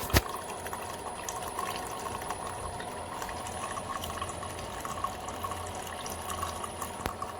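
Drip coffee maker brewing: a steady sound of hot water running and trickling, with a low hum and fine crackles. There is one sharp click just after the start.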